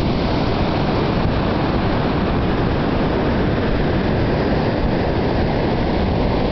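Ocean surf breaking in a steady, unbroken rush, with wind buffeting the microphone.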